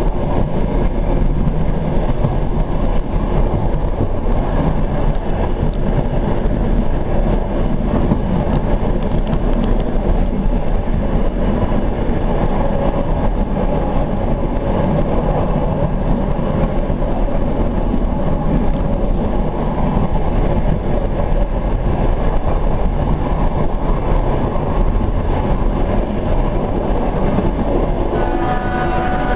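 Suburban passenger train running on a single-track line, heard from aboard at the window: a steady, loud rumble of wheels on rail. A pitched tone sets in about a second before the end.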